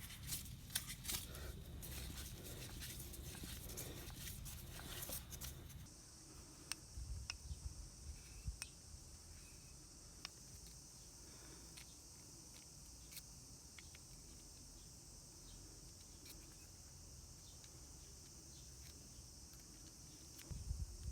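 Faint scattered clicks and taps of small tools and parts being handled. A steady high hiss starts abruptly about six seconds in and runs on behind them.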